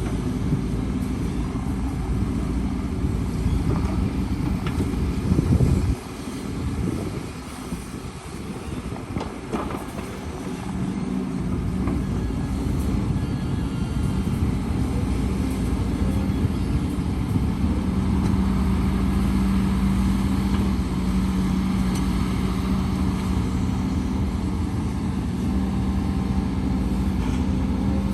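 Heavy diesel earthmoving machinery running steadily. The sound drops away suddenly about six seconds in and builds back up by about eleven seconds, then settles into a steady engine hum.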